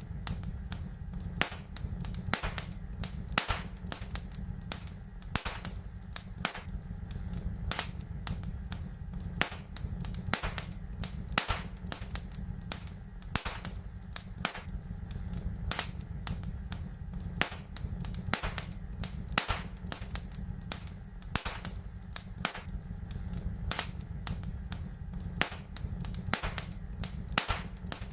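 Wood fire burning in a fireplace: a steady low rumble of the flames with irregular sharp crackles and pops, several a second, a few of them louder.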